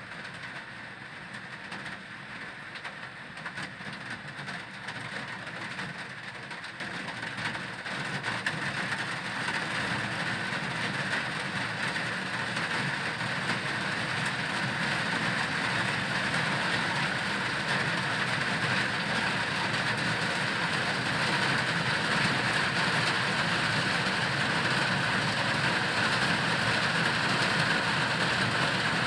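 Heavy rain pouring down, growing steadily louder over the first ten seconds or so and then holding, with a heavy engine idling underneath.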